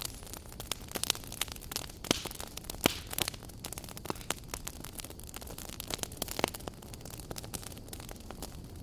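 Wood fire burning in a fireplace: a steady low rumble and hiss with irregular sharp crackles and pops, the loudest pop about three seconds in.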